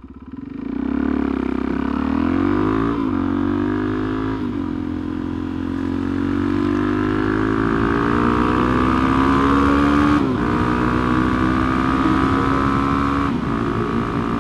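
Suzuki DRZ400SM single-cylinder four-stroke engine with a Lextek carbon exhaust accelerating hard through the gears: the engine note climbs, drops at each upshift about 3, 4.5, 10 and 13 seconds in, with a long steady pull in between, over wind rush.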